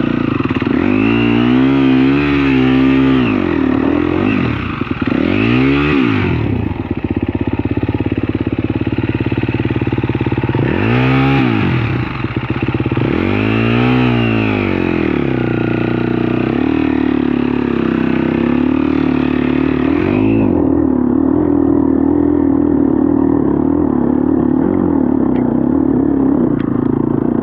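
Dirt bike engine revving up and back down four times in quick surges, then running at a steadier, lower note. About twenty seconds in, the sound turns suddenly duller.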